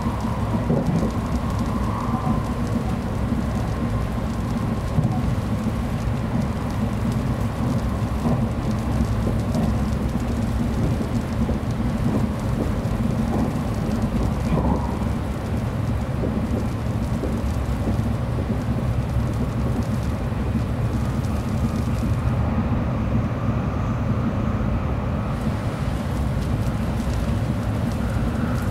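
Steady low rumble of a 700 Series Shinkansen running at speed, heard inside the passenger car. The hiss above the rumble drops away for a few seconds about three-quarters of the way through.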